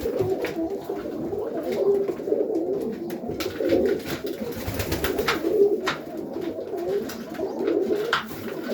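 Domestic pigeons cooing continuously, several birds overlapping, with a few short sharp taps now and then.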